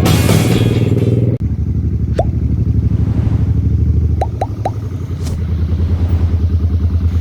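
Background music cuts off suddenly about a second and a half in, leaving a Suzuki Boulevard M800's V-twin engine running with a low, pulsing exhaust beat. The engine eases off for a moment midway and then picks up again. A few short chirps sound over it, once and then three in quick succession.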